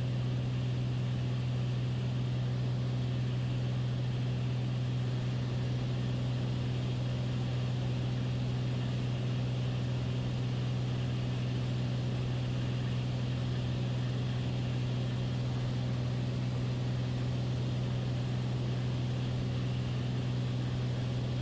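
Beechcraft Bonanza's piston engine and propeller running steadily in cruise, heard in the cockpit as a constant, even drone with a strong low hum.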